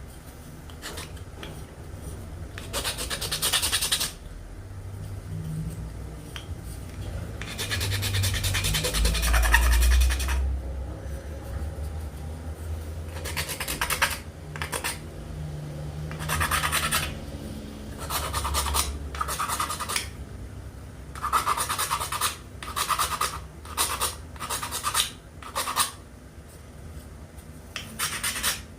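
A hand tool scraping and abrading wood in repeated strokes: a few long strokes in the first half, then a run of shorter, quicker strokes near the end. A low rumble runs under the middle part.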